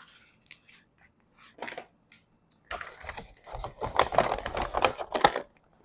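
A person eating a chicken rice bowl close to the microphone: a few small clicks at first, then dense clicky chewing from about three seconds in, stopping shortly before the end.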